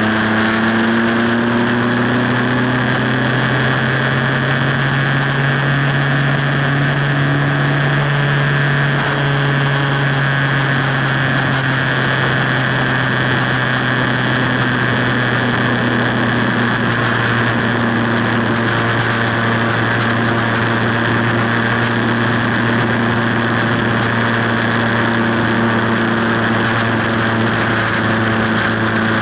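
Motorcycle engine running at steady highway cruising speed, heard from the bike itself with wind rushing past. Its pitch rises a little over the first few seconds, then holds steady.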